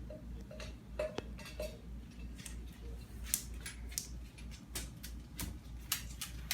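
Irregular light clicks and taps of hard objects knocking together, over a steady low hum.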